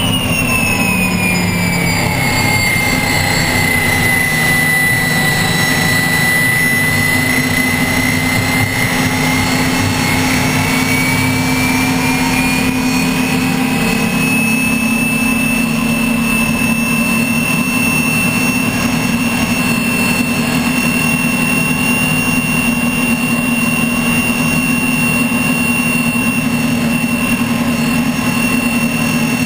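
Unlimited hydroplane's gas turbine engine running at racing power, heard onboard over a constant rush of wind and water. Its high whine sags in pitch over the first few seconds, then climbs back and holds steady.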